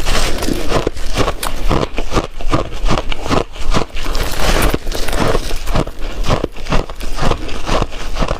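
Shaved ice being chewed close to the microphone: a rapid, irregular string of loud crunches with no pause.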